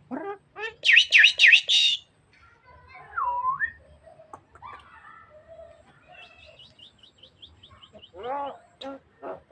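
Javan myna calling in a varied series: a loud burst of sharp high whistled notes about a second in, a swooping whistle a little later, then a rapid run of short ticking notes and a few harsher, lower calls near the end.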